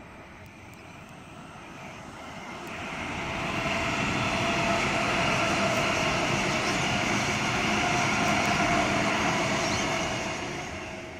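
Double-deck electric suburban train passing. It grows louder about three seconds in, runs steadily with a whine over the rumble of wheels on rail, then fades away near the end.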